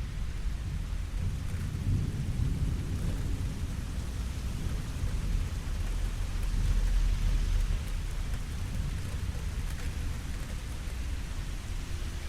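Steady rain falling, with a low rumble of thunder underneath that swells about two seconds in and again, more strongly, a little past the middle.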